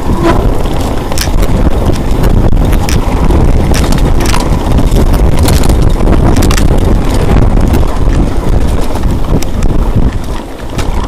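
Loud, steady wind rumble on the microphone of something on the move, with scattered sharp clicks or rattles; it eases about ten seconds in.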